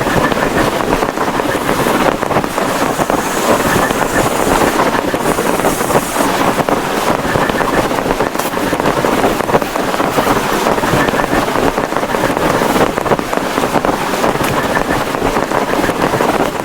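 Heavy rain drumming steadily on a plastic tarpaulin: a dense, loud patter of countless drops that keeps on without a break.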